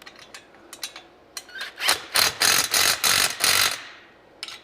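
Ratchet wrench tightening an engine stand's frame bolts. A few light clicks at first, then from about two seconds in a run of five quick ratcheting strokes, and a couple more clicks near the end.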